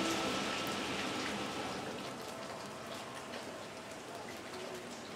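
Steady rain falling on a wet paved street, a hiss of many small drop ticks. The tail of background music fades out during the first second or so.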